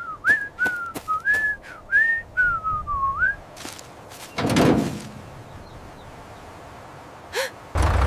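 Someone whistling a short, bouncy tune of gliding notes, with light clicks between the notes. After it stops, a brief rushing noise about four and a half seconds in.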